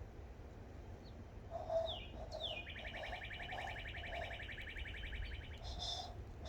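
A bird-like call: two quick falling whistles, then a rapid trill lasting about three seconds, over soft low pulses repeating about twice a second.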